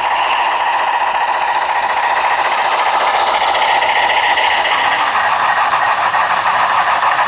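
HO-scale model freight train rolling along the layout's track: a steady, loud rattle of many small wheels on the rails.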